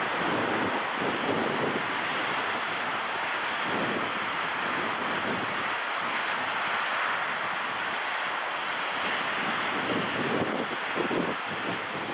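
Steady rushing roar of jet airliner engines, swelling and easing slightly.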